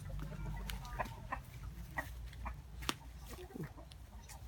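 Chickens clucking quietly, in short scattered calls, with a few sharp taps among them.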